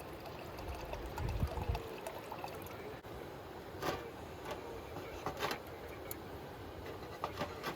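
Steady trickling, watery noise, with a low thump a little over a second in and a few sharp light clicks in the second half.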